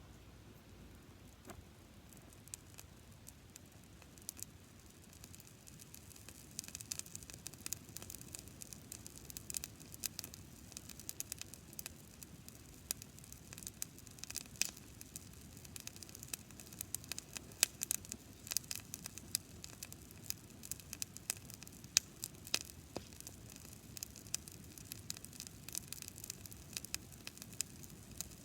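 Dry-grass campfire crackling, with many sharp pops over a low hiss. The crackles grow denser from about six seconds in.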